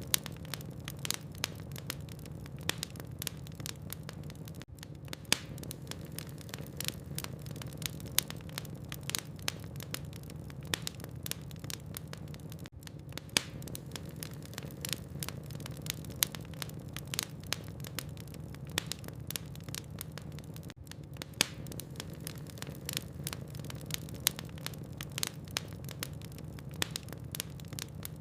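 Wood fire in a fireplace crackling: frequent irregular sharp pops and snaps over a steady low rumble of the burning logs.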